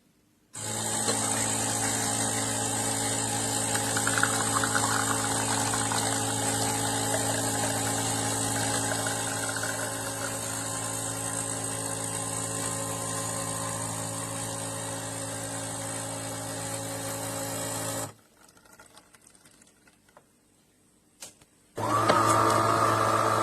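De'Longhi fully automatic espresso machine running with a steady mechanical hum for about seventeen seconds, stopping abruptly, then starting up again near the end after a few faint clicks.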